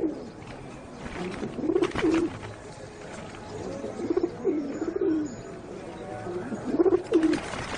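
Pigeons cooing: three low, wavering coo phrases, spaced a couple of seconds apart.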